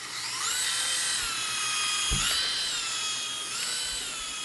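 Small electric motor and rotor of a toy remote-control Thor helicopter, with a high whine that rises as it spins up and then dips and rises again several times as the throttle changes. There is a single low thump about two seconds in.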